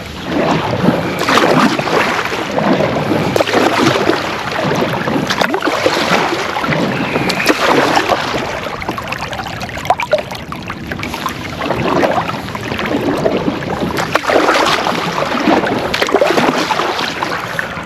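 Kayak paddle strokes through the water, a swishing splash about every two seconds, with water and wind noise between strokes.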